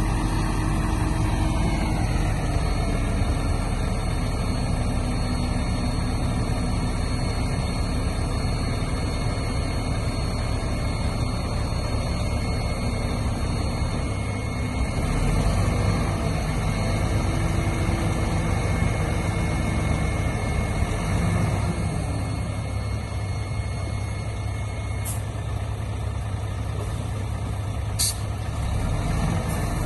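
Heavy diesel earthmoving machinery (bulldozer and dump truck) running steadily. A whine falls in pitch about two seconds in, and two brief sharp sounds come late on.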